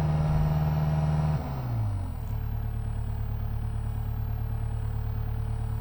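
An engine running at a steady high speed, then dropping in pitch about a second and a half in and settling to a steady lower idle as the throttle comes off.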